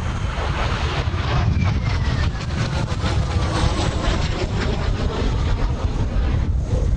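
Blue Impulse Kawasaki T-4 jet passing overhead, its engine whine falling in pitch as it goes by, over heavy wind buffeting on the microphone.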